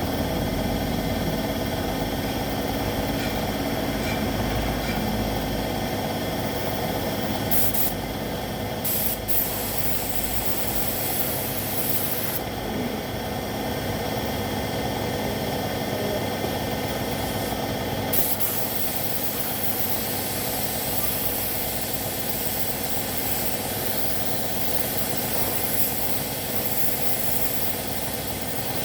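Air spray gun hissing as paint is sprayed onto motorcycle body panels, with the hiss stopping briefly three times as the trigger is let off, over the steady hum of a running air compressor.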